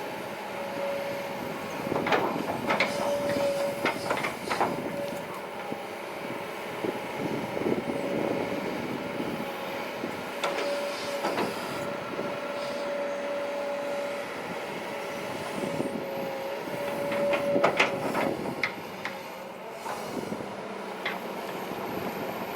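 Kobelco SK200-8 hydraulic excavator at work: its engine and hydraulics run steadily, with a whine that comes and goes and bursts of metallic clanks and knocks, loudest just before the last few seconds.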